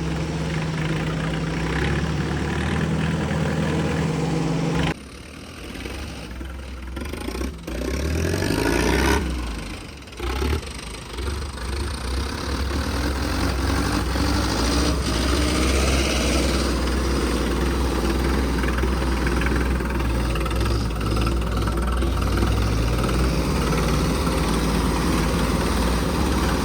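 Tractor diesel engine running during a test run: a steady note that drops away abruptly about five seconds in, rises and falls in revs around ten seconds, then settles into a steady low drone.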